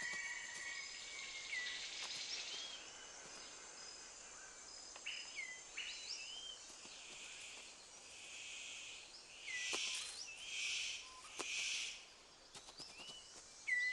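Faint forest ambience with short whistled bird calls that hook up and down in pitch, every second or two. About ten seconds in come four hissing buzzes, each under a second long, which are the loudest sounds.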